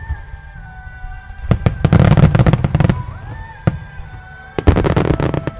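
Wide starmine fireworks firing in rapid volleys of bangs and crackling: one volley about a second and a half in, a single bang a little later, and another dense volley near the end.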